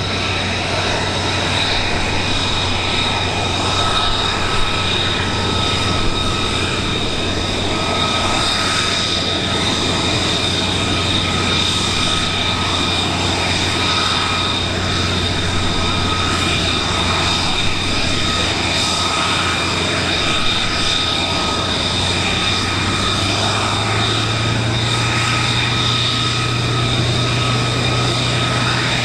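Aircraft engine running steadily, with a constant high-pitched whine over a low hum; the low hum steps up in pitch about three-quarters of the way through.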